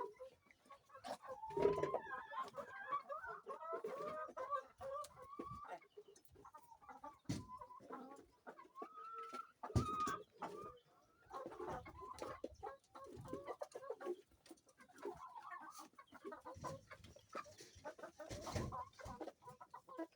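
A flock of layer hens clucking and calling continuously, with a few sharp knocks among them.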